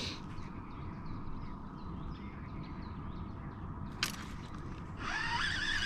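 Faint bird chirps over a low outdoor rumble, a sharp click about four seconds in, then a steady, wavering whine with many overtones that starts near the end and is the loudest sound.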